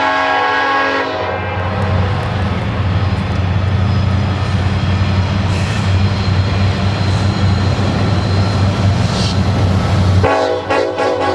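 Freight train's diesel locomotive horn sounding a chord that cuts off about a second in. Then a steady deep rumble of the locomotive engines and the train rolling past, until the horn sounds again near the end.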